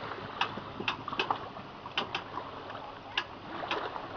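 Water splashing and slapping in irregular sharp hits over a steady wash of noise.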